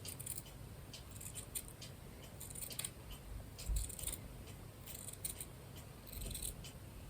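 Quiet, crisp rustling of fabric craft pieces being handled, in short bursts roughly once a second.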